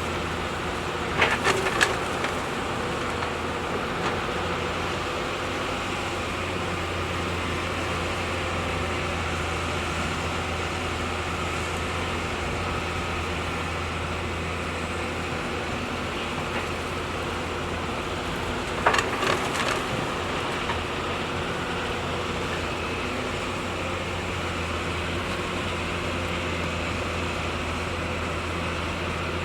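Hydraulic excavator's diesel engine running steadily. Two short bursts of metallic clatter come through, about a second in and again about two-thirds of the way through.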